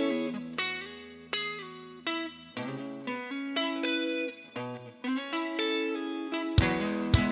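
Instrumental song intro on guitar: single picked notes ringing out one after another in a melodic pattern. About six and a half seconds in, the sound fills out and grows louder, with sharp percussive hits as the full arrangement comes in.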